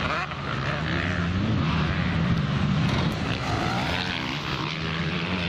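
Motocross bike engines running on the track, their pitch rising and falling as the riders work the throttle.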